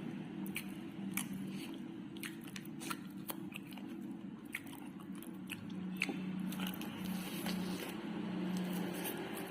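Close-up eating sounds: a person biting and chewing chicken thigh, with irregular crunchy clicks and wet chewing. A steady low hum runs underneath.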